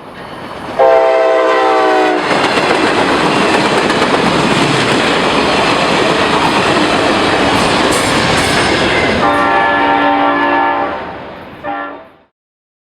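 Train horn sounding as a train passes close by: a long blast about a second in, then the loud rush of the passing train, a second long blast and a short toot near the end. The sound cuts off abruptly.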